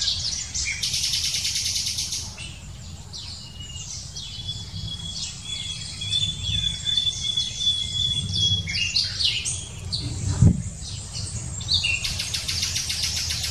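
Wild birds singing in the treetops: high chirps and fast trills, with one long steady whistle-like note in the middle, over a low rumble. A single sharp knock about ten seconds in.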